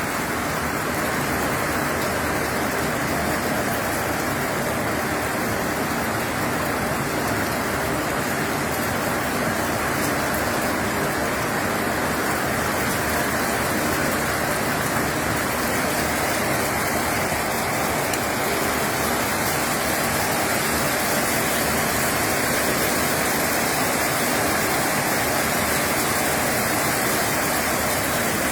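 Steady rain during a thunderstorm: an even, unbroken hiss with no thunderclaps.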